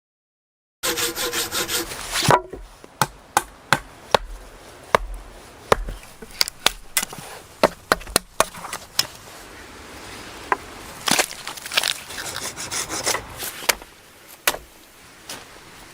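Hand tools working wood: starting about a second in, a short run of quick, even sawing strokes, then a string of sharp, irregular knocks and cracks of wood.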